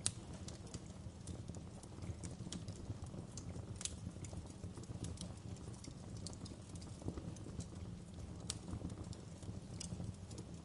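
Wood fire crackling in a fireplace: irregular sharp pops and snaps over a steady low rumble of burning logs, with one louder pop right at the start.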